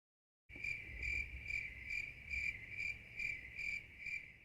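Crickets chirping, a steady high trill that pulses about twice a second, over a low rumble; it starts suddenly about half a second in.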